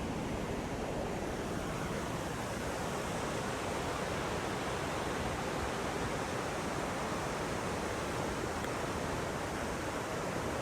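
Steady, even rushing noise that holds constant without gusts, breaks or distinct events.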